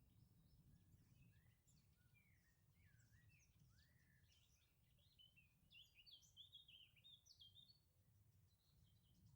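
Faint birdsong: several songbirds chirping and warbling in quick, rising and falling notes, busiest a little past the middle, over a low steady rumble.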